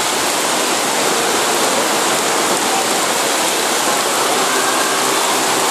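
Very heavy rain pouring down onto a flooded street, a dense, steady hiss of drops splashing into standing water.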